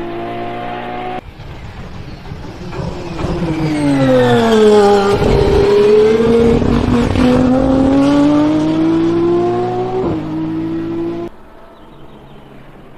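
Lamborghini Essenza SCV12's naturally aspirated V12 racing engine at high revs on track. The car passes close by loud, its note falling as it goes past and then climbing again as it accelerates away. There are sudden cuts to the engine at speed about a second in, and to a quieter, more distant run near the end.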